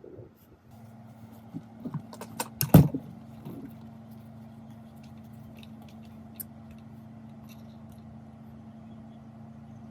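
A motor starts about a second in and runs steadily with a low hum. A few sharp knocks and clatters come between two and three seconds in, the loudest near three seconds.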